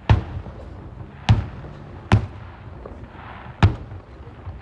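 Aerial firework shells bursting: four sharp booms at uneven intervals, each followed by a short low rumble.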